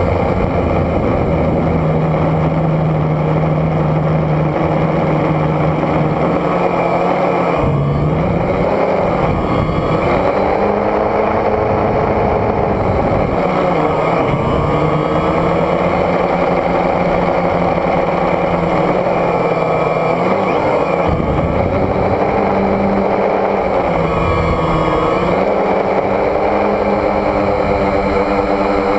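DJI Phantom quadcopter's motors and propellers buzzing, the pitch dipping and rising again every few seconds as the motors change speed, over a steady high whine.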